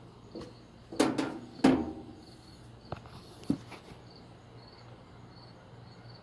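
A few sharp knocks with a short ring after them: two loud ones close together about a second in, then two lighter ones a couple of seconds later. Faint, steady insect chirping runs underneath.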